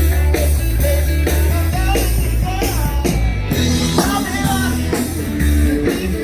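Rock-and-roll band playing with a steady drum beat and guitar, and some singing.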